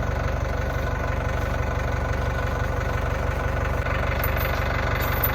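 A tractor engine idling steadily with a low, even rumble.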